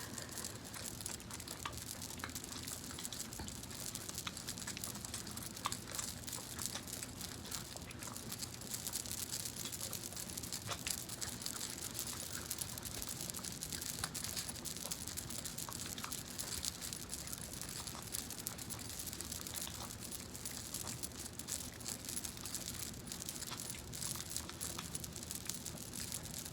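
Close-miked fingers rubbing and working oil through hair: a continuous crackly, crinkly rustle dotted with many small sharp ticks.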